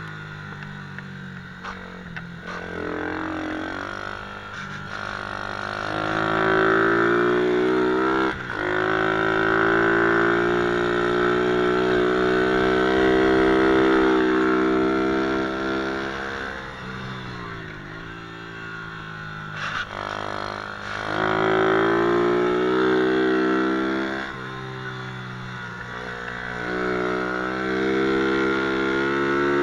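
MRF 120 cc pit bike engine revving up and down, rising in pitch and growing louder several times with sharp drops between as the throttle is closed.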